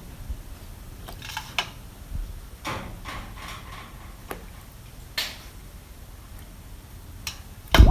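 Scattered clicks and a few short scraping strokes as small hard parts are handled, with a loud low thump near the end.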